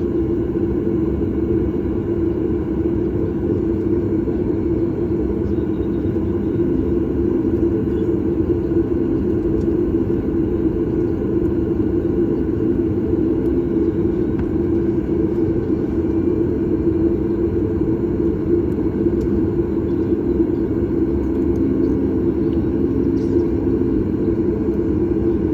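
Cabin noise of a Boeing 737 MAX 8 under way: a loud, steady rumble of its CFM LEAP-1B engines and airflow, with a constant low hum.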